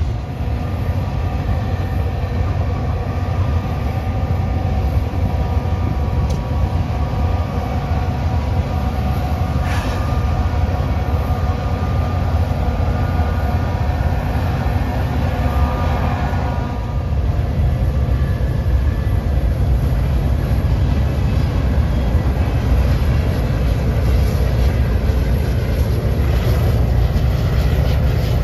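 Freight train rolling past with a steady low rumble of wheels on rail, with faint steady higher tones over it in the first half.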